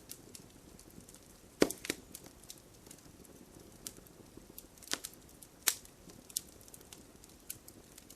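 Wood fire crackling: a faint steady hiss with scattered sharp pops, the loudest about one and a half seconds in and two more around five to six seconds in.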